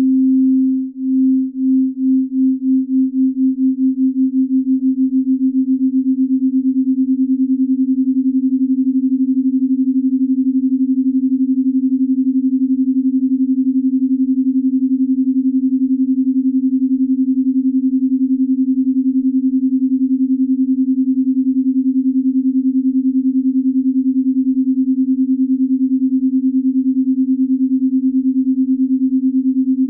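Binaural-beat tone: a steady, pure sine tone a little above 200 Hz, made of two close pitches that beat against each other. The pulsing starts slow, about one a second, speeds up over the first few seconds, then holds at a steady fast throb.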